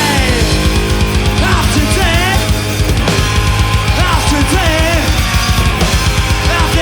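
Loud rock music with a fast, driving beat and a melody line that bends up and down in pitch.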